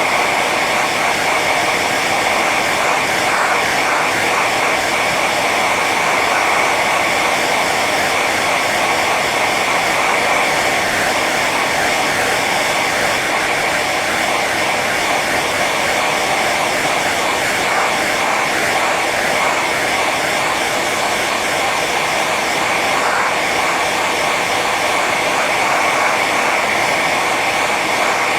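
Hair dryer running steadily on its high setting: an even rush of blown air with a steady high whine.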